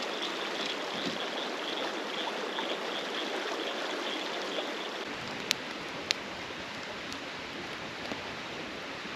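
Steady rush of flowing river water, with two sharp clicks a little past halfway.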